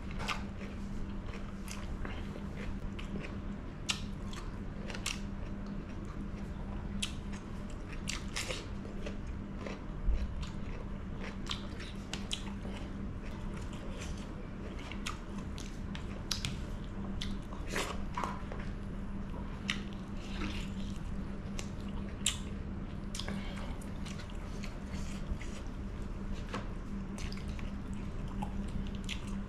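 Close-miked chewing and mouth smacks of a person eating chicken curry by hand, with many short irregular wet clicks. A faint steady hum runs underneath.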